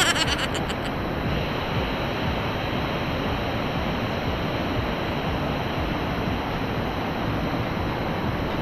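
Steady rush of water falling in a small waterfall into a pool, an even noise with no change. A brief rattle of clicks in the first half second.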